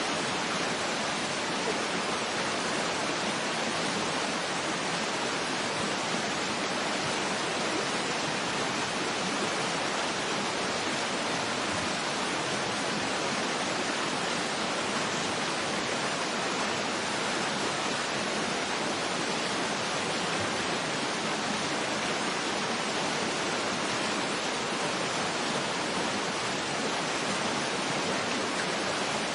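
Waterfall rushing steadily: an even hiss of falling water with almost no deep rumble, unchanging throughout.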